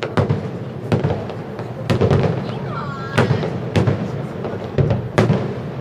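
Aerial firework shells bursting in quick succession: about eight sharp bangs, irregularly spaced half a second to a second apart, over a constant rumble from the display.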